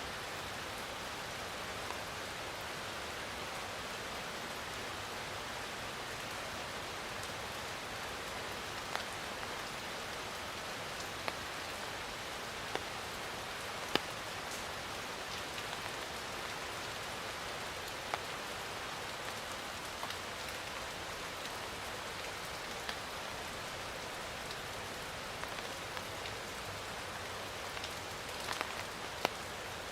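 Steady rain falling, with occasional louder individual drops striking a surface close by, a few of them near the end.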